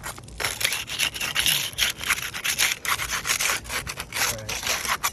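Roof shingles being pried loose by hand, a quick irregular series of scraping and rubbing strokes as they are worked free.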